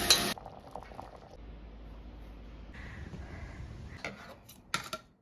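A rush of running water cuts off sharply about a third of a second in. Faint handling sounds follow, with a few small sharp clicks near the end.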